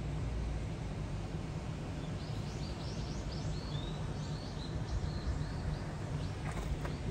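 A small bird chirping a quick run of short, high notes over a steady low outdoor rumble.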